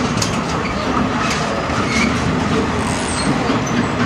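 A train running at a crawl over a wooden trestle viaduct, heard from on board: a steady rumble of wheels on the track with a few sharp clicks.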